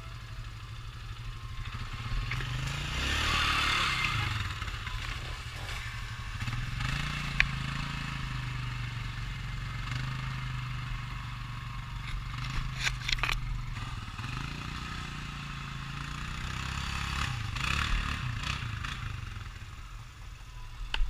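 ATV engine revving up and falling back several times as it churns through a deep mud hole, with a few sharp clacks about a third of the way in and again past the middle.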